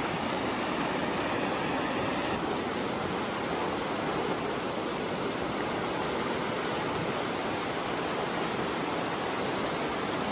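Shallow river flowing past, a steady rushing of running water.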